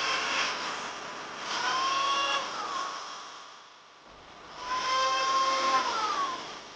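Electric hand planer running in repeated passes: a high motor whine with rough cutting noise swells up three times and eases off in between, quietest a little past the middle.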